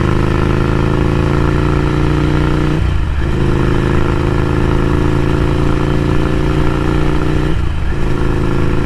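Ducati Scrambler Café Racer's air-cooled L-twin running through a Vance & Hines slip-on exhaust under way, its pitch slowly rising as it pulls. Two brief breaks in the sound, about three and eight seconds in, are upshifts.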